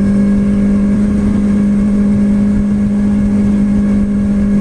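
Motorcycle engine running at a steady speed, one loud even drone over road and wind rumble.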